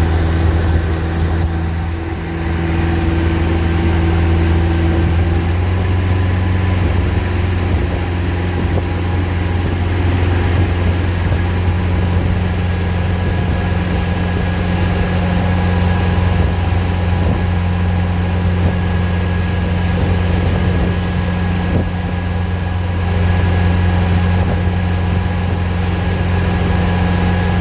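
Engines of a 31 ft Wellcraft cabin cruiser running steadily underway, a constant low drone whose note shifts slightly about five seconds in.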